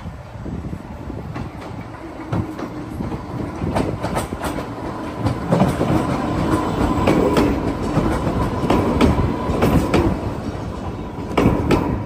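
Island Line Class 484 electric train running by, its wheels clicking irregularly over the rails above a rumble that builds after a few seconds, with a faint steady whine joining about halfway through.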